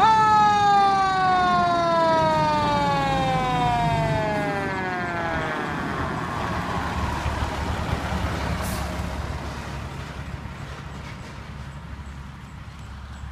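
Fire truck siren giving one wail: it sweeps up sharply at the start, then slowly winds down in pitch over about five seconds. Under it the truck's engine rumbles on and fades as the truck moves away.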